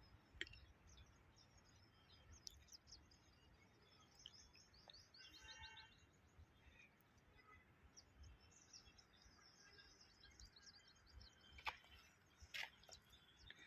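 Faint birds chirping, with many short high chirps and one longer call about halfway through. A few light clicks come near the end.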